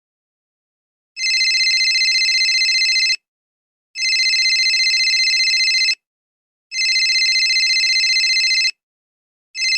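Telephone ringing: an electronic warbling ring in bursts of about two seconds with short gaps, starting about a second in, three full rings and a fourth beginning near the end.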